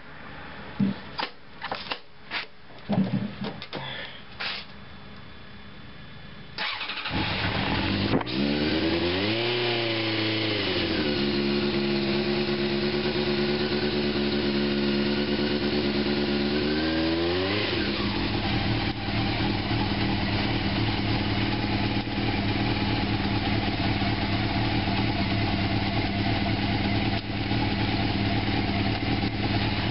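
A 1987 Honda CBR600F Hurricane's inline-four engine is started cold with no choke cable fitted. A few clicks and knocks come first; the engine catches about seven seconds in and revs up. It settles to a steady fast idle, picks up again around eighteen seconds in, and runs steadily after that.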